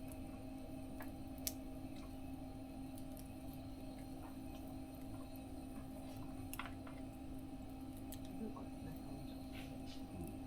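Wood fire crackling in a small mesh fire stove: scattered sharp pops at irregular intervals over a steady low hum.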